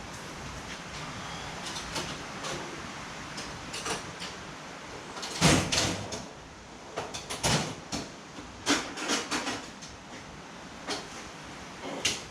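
Hard clicks and knocks of parts and tools being handled, loudest about five and a half seconds in, with a run of them through the second half.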